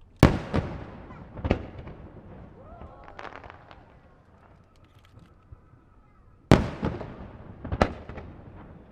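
Aerial firework shells bursting with sharp, echoing booms: three in the first second and a half, a patch of crackling, then after a lull another loud burst about six and a half seconds in, followed by two more booms.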